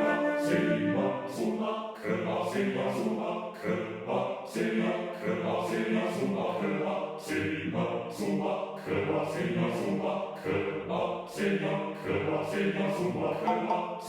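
Choral music: a sampled virtual choir sings short, rhythmic syllables about three a second over orchestral backing.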